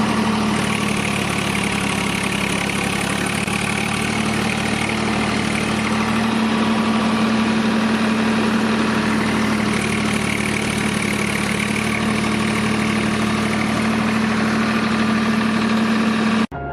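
Tractor engine idling steadily with a constant low hum; it cuts off suddenly near the end.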